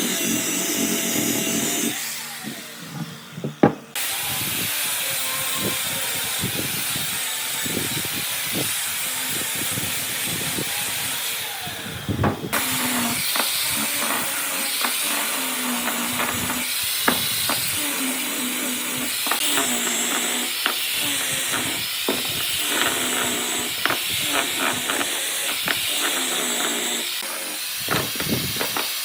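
Woodworking power-tool noise: a steady hissing run with scattered knocks and clicks on wood. It changes abruptly about two, four and twelve seconds in.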